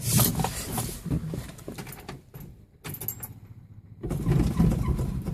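Keys jangling and clicking in the ignition of a 1966 Mustang. About four seconds in, its 302 V8 begins turning over on a cold start with a low, steady rumble.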